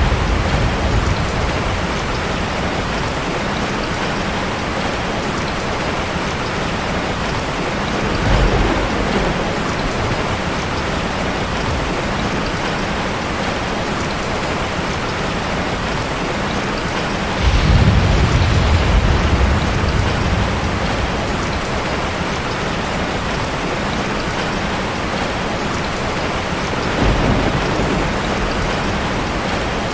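Heavy rain falling steadily, with low rumbles of thunder: one about a quarter of the way in, a louder, longer rumble a little past halfway, and a short one near the end.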